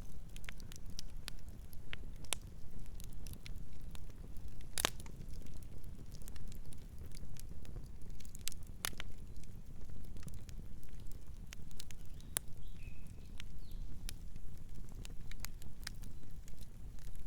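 Campfire burning: wood crackling with scattered sharp pops over a steady low rumble. The two loudest pops come about five and nine seconds in.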